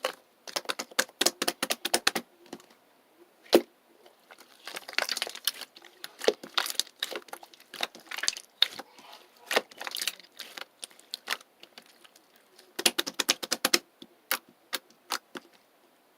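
Bursts of rapid, irregular sharp clicks and taps, in clusters separated by short pauses, with a softer rustling between some of them.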